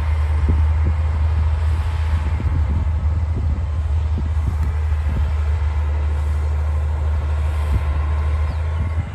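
D60 bulldozer's diesel engine running steadily with a heavy low drone, with many irregular knocks and clanks over it.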